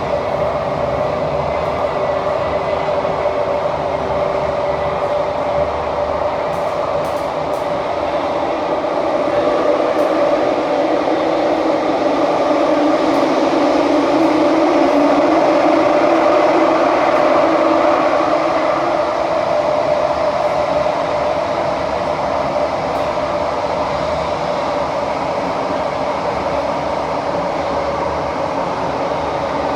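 A Kawasaki–CRRC CT251 metro train running through a tunnel, heard from inside the car. There is a continuous rumble with a steady high-pitched tone over it, the weird noise this set makes. The running noise swells for a few seconds in the middle, then settles.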